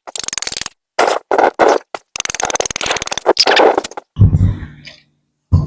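Short bursts of rustling and scraping as fishing gear is handled close to the microphone. About four seconds in, wind buffets the microphone with a low rumble.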